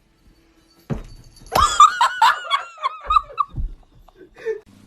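High-pitched laughter: a quick run of about nine short rising-and-falling bursts, starting about one and a half seconds in.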